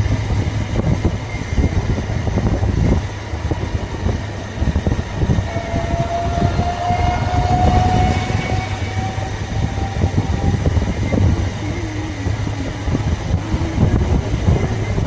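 Motorcycle riding on a road, with the engine running and a loud rush of wind on the microphone. A long tone rises slightly, starting about five seconds in and lasting some three seconds.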